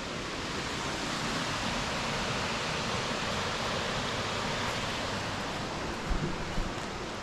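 Waterfall rushing, a steady even roar of falling water. A few soft low thumps come about six seconds in.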